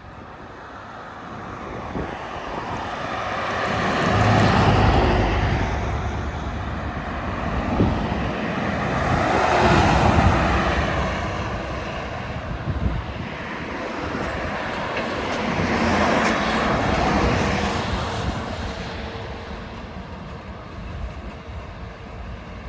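Three trucks passing by one after another on a highway, each a swell of tyre and engine noise that rises and fades away. The first, about four seconds in, is the loudest and deepest.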